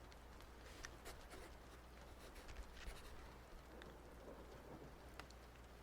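Faint scratching of writing on paper, with small scattered ticks as the pen or pencil moves.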